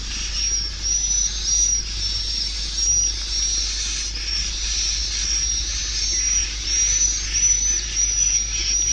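Swiftlet calls played as a lure recording: a steady stream of short, high, arching chirps, about two a second, over a dense background of fainter twittering.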